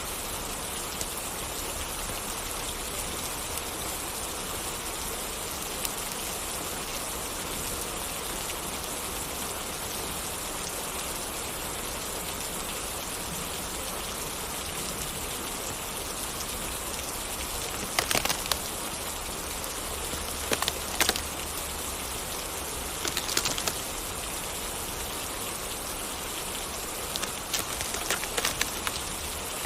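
Steady rain falling, with a few sharp pops in the second half.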